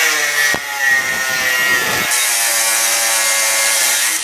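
Angle grinder with a cutoff wheel cutting through the old steel exhaust pipe: a steady motor whine over a loud hissing grind of metal, the pitch sagging slightly as the wheel bites into the cut.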